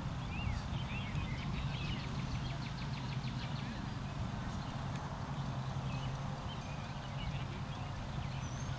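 Small birds chirping in short up-and-down calls, with a quick ticking trill about two seconds in, over a steady low hum.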